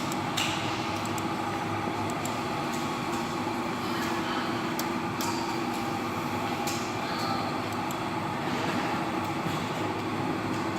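Small electric motor running steadily with a dense hum, with scattered sharp clicks over it.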